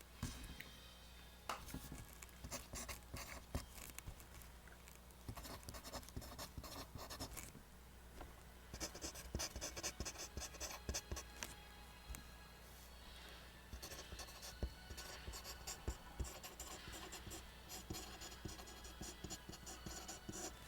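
Pencil drawing lines on paper: runs of quick scratchy strokes with brief pauses between them.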